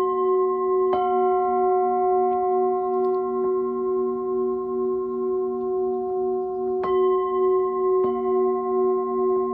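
Several singing bowls struck in turn, about a second in and again near seven and eight seconds. Their overlapping tones ring on at several pitches with a slow, regular wavering pulse.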